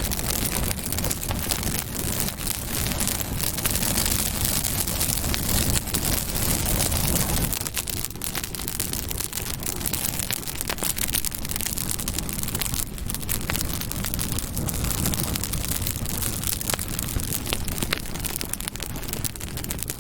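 Campfire burning: a dense, continuous crackle of small snaps over a steady rushing hiss.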